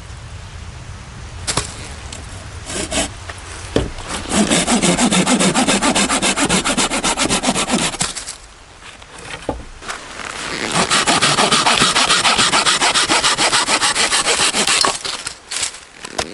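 Hand saw cutting through wood in two bouts of quick, even strokes, about four or five a second, with a short pause between them. A few sharp knocks come before the first bout.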